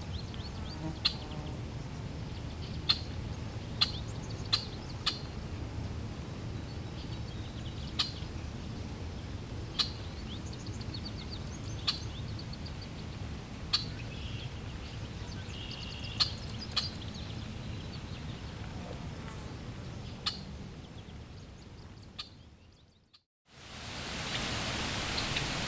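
Short, sharp bird chirps every second or two over a low, steady outdoor rumble. Near the end everything fades to a moment of silence, and a steady rush of flowing water fades in.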